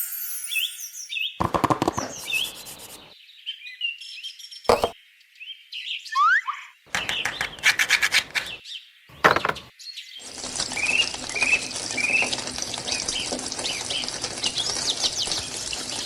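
Small birds chirping, broken up by a few sharp knocks and clicks in the first half. From about ten seconds in, a steady hiss carries short repeated chirps.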